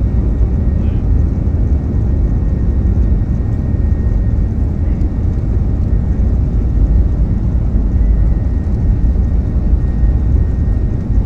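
Airliner engines and airframe heard from inside the passenger cabin during takeoff: a loud, steady low rumble with a faint steady high whine above it.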